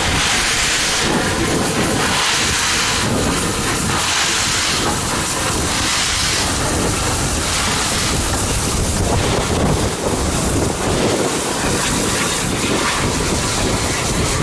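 Bulleid steam locomotive working, its exhaust beats coming as slow, evenly spaced hissing chuffs about one every second or so, over a heavy low rumble. The beats run together into a steady roar in the second half.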